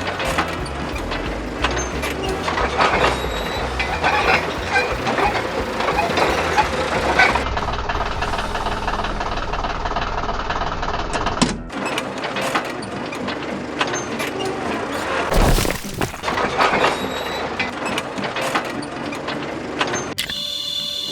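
Heavy vehicle engine running with clanks and knocks, the low engine rumble cutting off suddenly about halfway through, followed by more scattered knocks.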